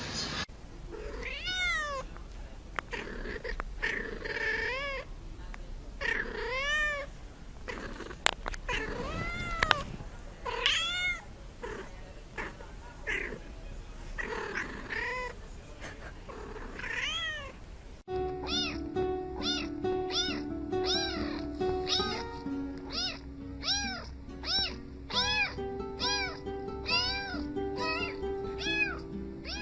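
Cat meowing over and over, one arched meow every second or two. About eighteen seconds in there is a sudden change to quicker, evenly spaced meows set against music with a steady melody.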